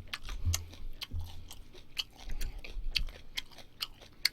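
A person chewing food close to the microphone, with irregular wet clicks and smacks several times a second.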